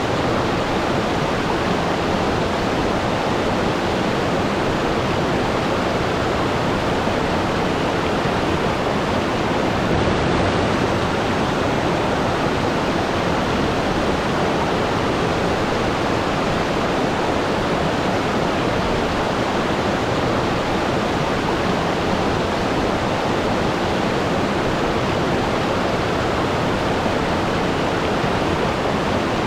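Waterfall: water falling in a steady, even rush with no change or break.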